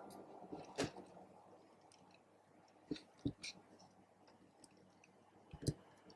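Slime being worked by hand, giving a few soft, sticky clicks and pops scattered through an otherwise quiet stretch.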